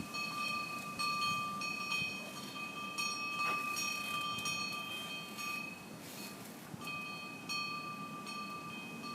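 Metal chimes ringing, struck again and again at the same few high pitches, with a short lull about six seconds in, over a faint low rumble.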